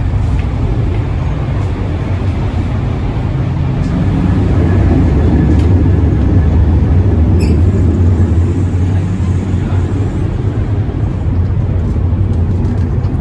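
Steady low rumble of a moving vehicle, swelling for several seconds in the middle before easing off.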